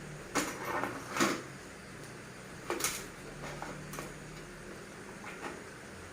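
A few short knocks and clatters, three of them louder in the first three seconds and fainter ones after, over a low steady hum.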